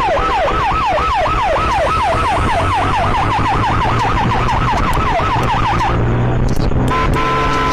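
Police siren yelping, a fast wailing sweep repeating about four times a second over engine and road noise. It cuts off about six seconds in, and near the end a steady two-note tone, like a horn, starts.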